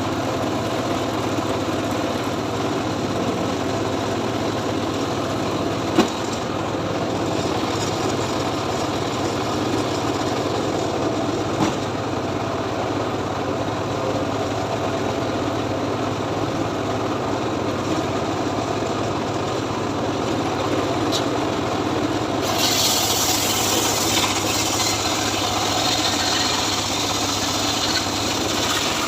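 Homemade engine-driven log saw (gergaji srekel) running steadily, with two short sharp knocks. About three quarters of the way through, a brighter hissing rasp joins as the blade cuts into teak.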